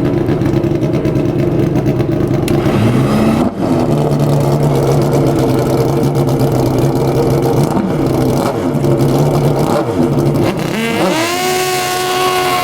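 Drag-racing motorcycle engine running steadily, with a couple of brief blips, then revving up near the end.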